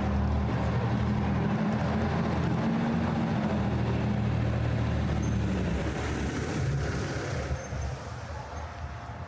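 A large motor vehicle's engine running close by with a deep, steady hum that fades away after about six seconds.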